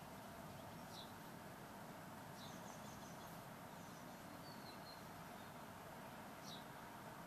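Faint bird calls: a handful of short, high chirps and a brief trill scattered over a steady quiet background hiss.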